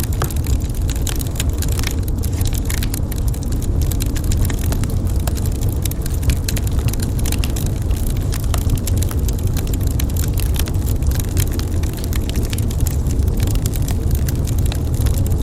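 Wood fire in a fireplace crackling, with frequent sharp, irregular pops and snaps over a steady low rumble.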